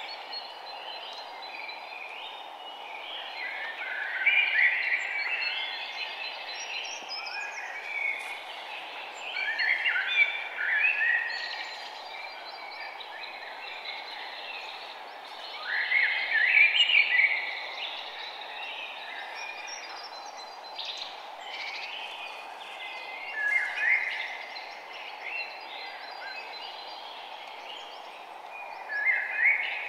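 Birds chirping in short bursts that come back about every six seconds, over a steady hiss of background ambience.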